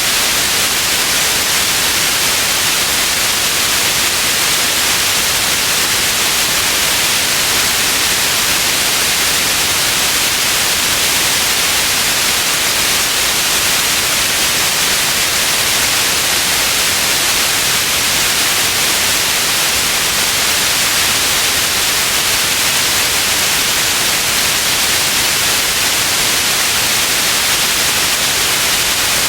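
Steady white noise: an even, unchanging hiss, strongest in the high frequencies, with no variation.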